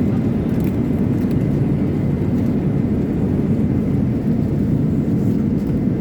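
Steady low rumble of a Boeing 787's cabin in flight, the airflow and engine noise heard from a passenger seat, with a few faint light clicks.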